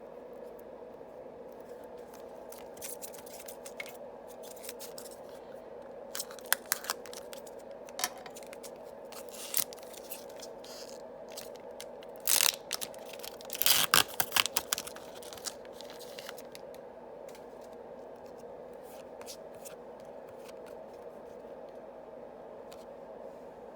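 Foil booster packs of trading cards being opened and handled: scattered crinkles and sharp snipping or tearing sounds, busiest about halfway through, over a steady low hum.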